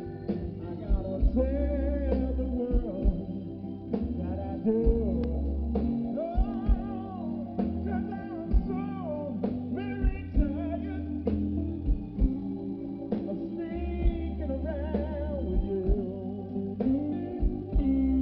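Live blues band playing: a lead guitar or voice with wavering, bending notes over a steady bass line and regular drum beats.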